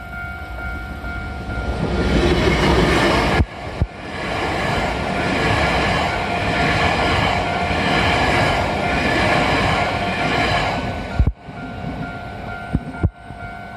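A Japanese level-crossing alarm rings steadily in a repeating two-tone pattern while a train passes close by. The train is loudest from about two seconds in until about eleven seconds in, then fades, leaving the crossing bell.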